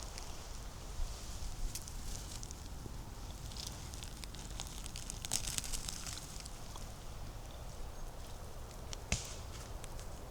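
Footsteps on the forest floor, crunching and rustling through dry leaves and twigs in uneven patches, with a sharp crack about nine seconds in.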